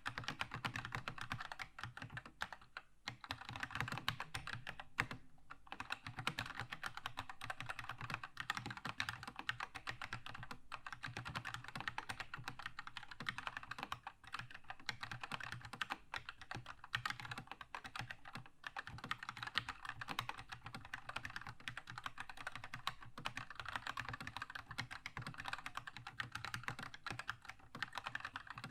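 Fast, continuous typing on a Keychron K2 mechanical keyboard with linear red switches, many keystrokes a second. There are brief pauses about three and five seconds in.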